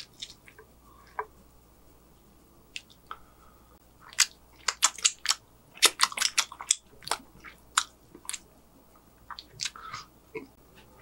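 Close-miked eating sounds: chewing and wet mouth clicks. A dense run of smacking clicks about four to eight seconds in comes as he licks his fingers.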